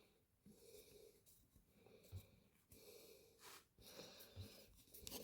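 Near silence: faint room tone with a few soft knocks from small parts being handled.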